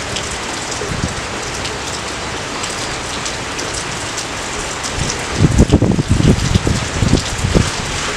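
Steady rain falling, a dense even patter with scattered individual drops. From about five seconds in, a run of irregular, louder low thumps rises over it.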